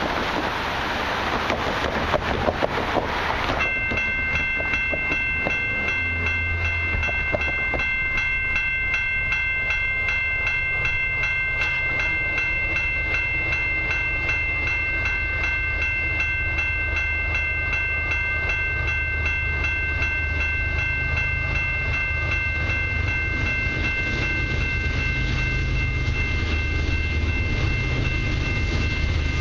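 Diesel freight locomotives approaching, a low rumble that grows a little louder toward the end. From about four seconds in, a steady high-pitched ringing tone runs on unbroken above it.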